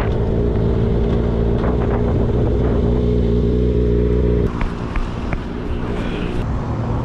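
An engine running at a steady speed, which stops abruptly about four and a half seconds in. A few sharp clicks and knocks follow.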